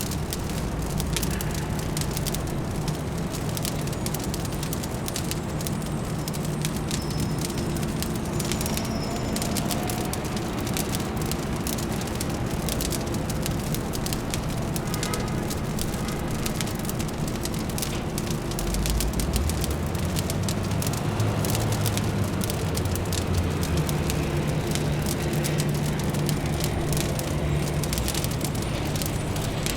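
Fireplace fire crackling steadily over a low, constant city hum; a deeper rumble joins about two-thirds of the way through.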